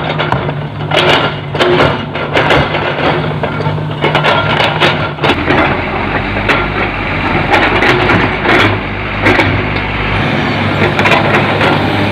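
A heavy diesel engine runs steadily under a constant clatter of irregular knocks and cracks from soil and rock being loaded into a dump truck's steel bed.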